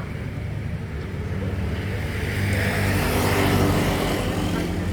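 Vehicle engine running with a steady low hum and a rushing hiss, growing louder about two seconds in and easing off near the end.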